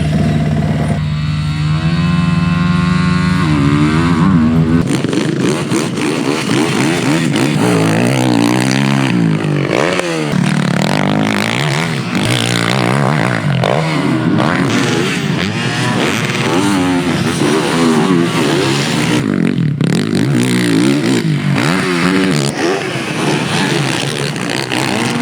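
Yamaha YZ450F motocross bike's single-cylinder four-stroke engine, running low at first and revving up from about a second in, then rising and falling in pitch over and over as the bike is ridden hard around the track.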